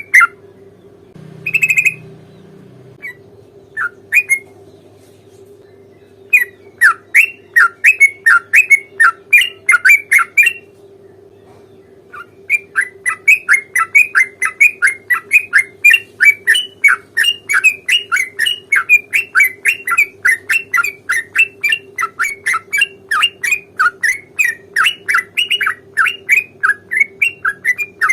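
Yellow-vented bulbul (trucukan) singing its chattering 'ropel' song: long rapid runs of short, loud, falling notes, a few scattered notes at first, then a dense run, a pause of about two seconds, and another long run to the end.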